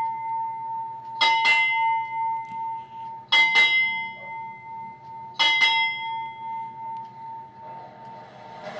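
Ship's bell struck in pairs, three double strikes about two seconds apart, each leaving a steady ringing tone. This is the naval ringing of honors for an arriving official.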